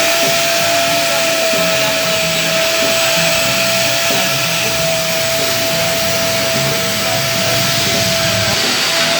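Car wash equipment running steadily: a loud, even hiss with a constant whine from its motor.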